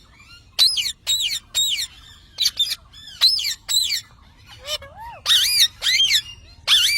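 Parrot squawking repeatedly: short, harsh calls about two a second, with a few lower, arching calls about two-thirds of the way through.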